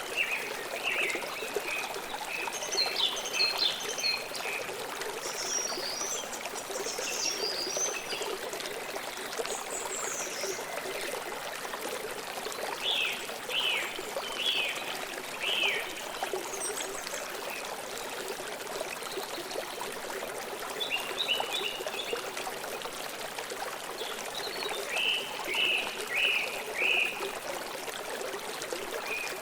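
Steady rush of a flowing river, with birds chirping in short bursts every few seconds over it.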